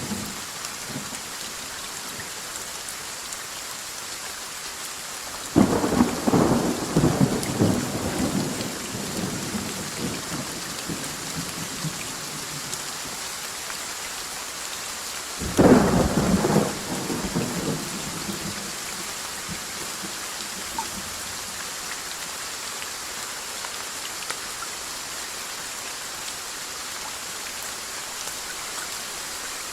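Steady rain with two thunderclaps: one breaks about five and a half seconds in and rumbles on for several seconds, and a shorter one comes about fifteen seconds in.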